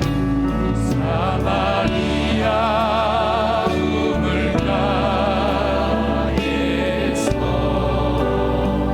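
Church praise band playing a worship song, with keyboards, bass guitar and drums under sustained, wavering sung or synth notes.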